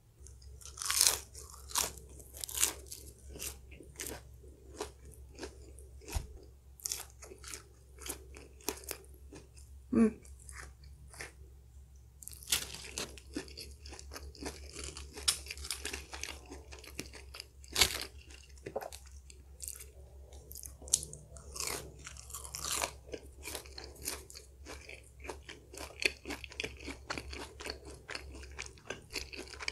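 Crunching and chewing of crispy battered cheesy onion rings, with many separate crunches in an irregular run.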